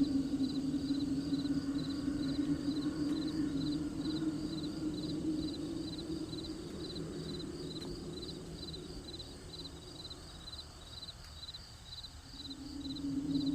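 Crickets chirping steadily in an even rhythm, about three chirps a second. Under them is a low steady drone that fades away about ten seconds in and comes back near the end.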